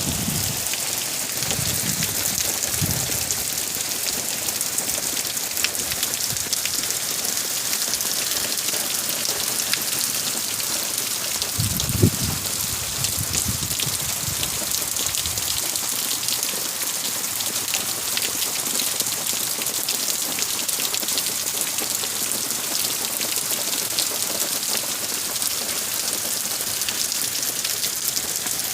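Heavy hurricane rain falling steadily, an even hiss of rain on surfaces, with a brief low thump about twelve seconds in.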